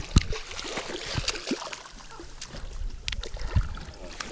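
Water lapping and trickling around a small fishing boat, with several sharp knocks on the boat, the loudest just after the start and about three and a half seconds in.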